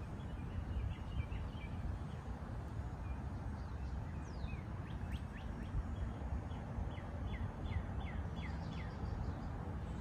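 A songbird singing: a few faint chirps near the start, then a run of quick down-slurred notes, about three a second, from about halfway through. Under it runs a steady low rumble.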